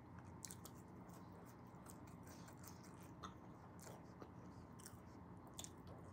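Faint chewing of fries close to the microphone, with a few small scattered mouth clicks.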